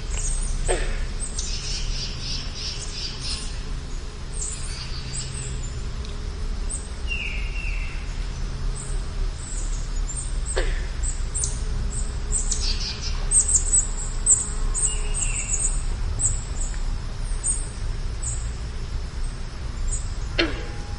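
Wild birds singing and calling, many short high chirps throughout with a few lower falling notes, over a steady low rumble.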